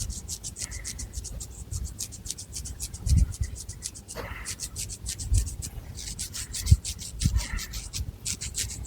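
Long fingernails scratching through thick hair and across the scalp in quick, crisp strokes, several a second, with a few soft low bumps now and then.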